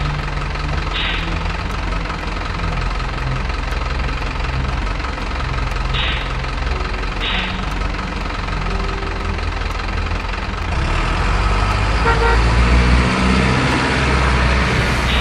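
Truck engine running steadily with a low rumble, louder from about 11 seconds in, with three short hissing bursts about 1, 6 and 7 seconds in.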